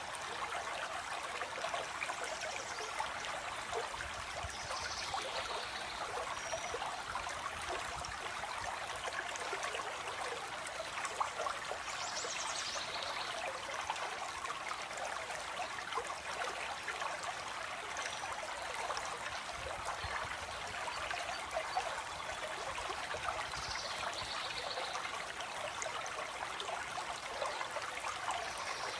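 A small stream flowing and trickling steadily over stones. A bird gives a few brief high-pitched calls, spaced several seconds apart.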